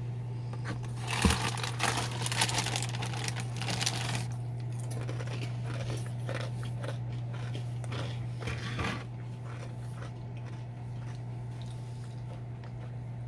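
Dry Cinnamon Graham Toast Crunch cereal squares crunching and crinkling as they are handled and bitten. The crackling is densest a second or so in, thins to scattered softer crunches, and dies away about nine seconds in, over a steady low hum.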